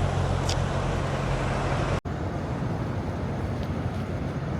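Steady low hum of idling truck engines with traffic noise around a truck stop, broken by a split-second dropout about two seconds in.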